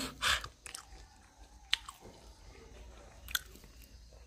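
Close-up chewing and biting of hot corn, with three sharp crunchy bites about a second and a half apart.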